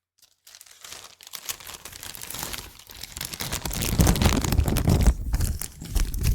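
Plastic bag crinkling and rustling directly against the microphone. It starts faint about half a second in and builds, becoming loud with a heavy low rumble from about four seconds in.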